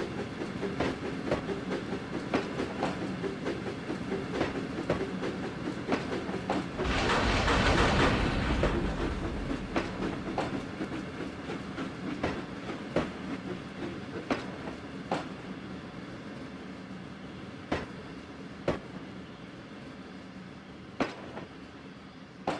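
Train running along the line, its wheels clicking over rail joints at uneven intervals. A loud rushing surge comes about seven seconds in, and the sound then slowly fades away.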